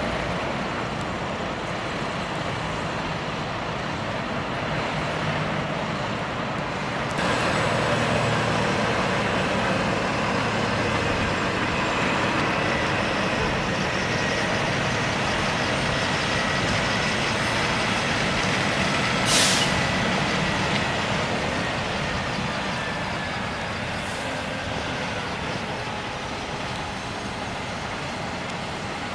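International 9900i semi-truck running at low speed, its engine and road noise getting louder about seven seconds in. A short air-brake hiss comes about two-thirds of the way through.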